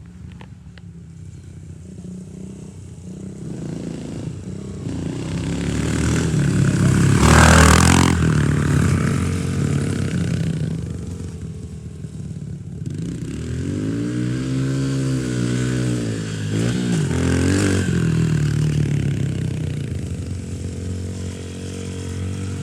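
Dirt bike engine running and riding around. It surges loudest about seven seconds in as it comes close, then its pitch rises and falls several times as it is revved.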